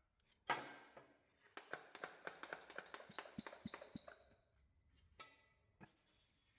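A short noise about half a second in, then a quick run of light clicks and clinks for a couple of seconds, some faintly ringing, as of metal parts or tools being handled.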